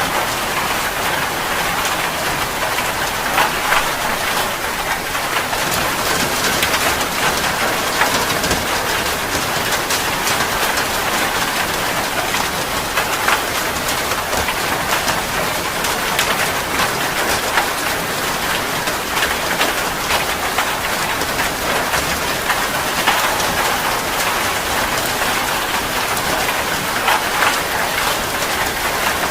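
Steady rain falling, with many distinct drops clicking sharply on a surface throughout.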